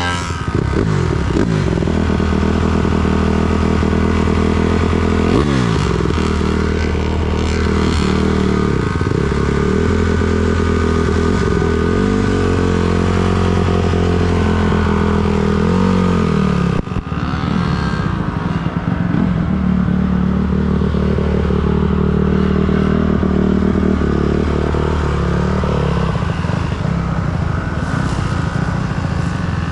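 Motorcycle engine running under way at a steady pitch, which dips and climbs again a few times as the throttle is eased off and reopened.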